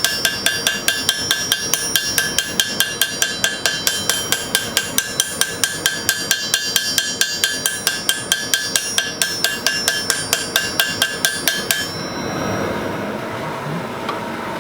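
Forging hammer striking a hot carbon-steel knife blank on an anvil, about four blows a second, with a bright metallic ring under each blow. The hammering stops near the end and a steady rushing noise remains.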